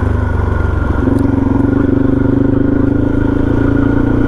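Suzuki DRZ400's single-cylinder four-stroke engine running steadily under way on a dirt trail. The engine note comes back up about a second in.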